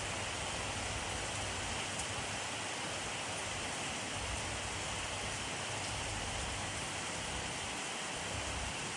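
Steady rainfall pattering on a surface: an even hiss of many drops at a constant level, with a faint individual drop now and then.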